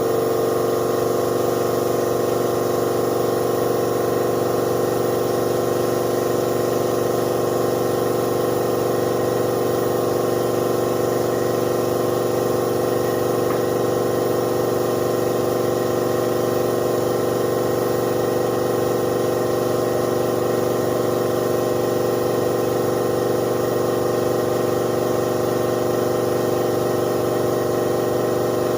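Air compressor motor running steadily with an even hum for spray painting.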